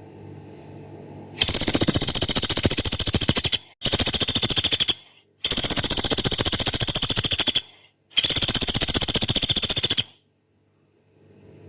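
Pelatuk beras, a small woodpecker, giving four long, fast, harsh rattles, each a rapid even string of pulses lasting one to two seconds, with brief pauses between.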